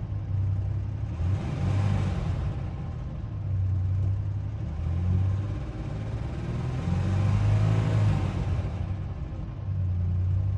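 1992 Ford Ranger engine running, heard from inside the cab, with its revs rising and falling several times. It is being listened to for a valve lifter tick, which is hard to make out.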